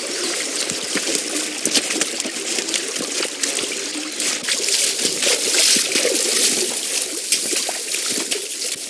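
Running water trickling and splashing in a steady stream.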